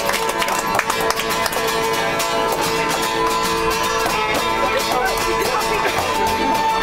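Live acoustic folk music: a strummed acoustic guitar under a melody instrument holding long, steady notes.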